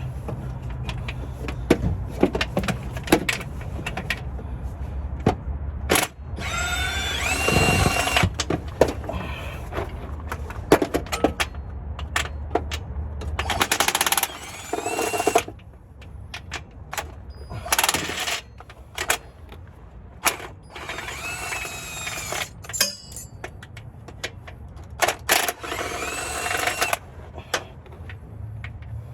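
Cordless power tool loosening bolts under a vehicle, running in five bursts of one to two seconds, its motor whining up and down in pitch. Scattered clicks and metal knocks come between the bursts, and a low hum stops about halfway through.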